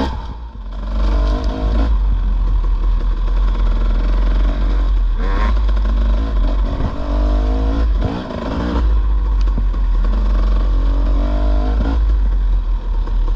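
Dirt bike engine riding a rough trail, revving up and falling back again and again as the throttle is worked, with brief lulls near the start and about eight seconds in.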